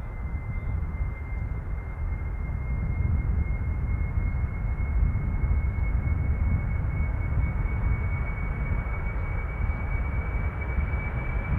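Boeing 747-400F's four General Electric CF6 turbofans at takeoff power: a deep, steady rumble with a thin high whine that creeps slowly up in pitch as the sound gradually grows louder.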